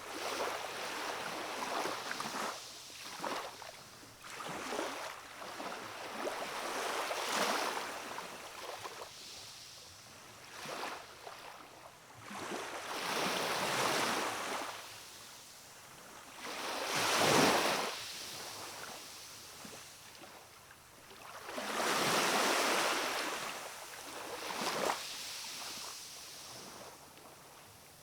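Calm sea waves washing in on the shore: a steady hiss of water that swells into splashes every few seconds, the largest about halfway through.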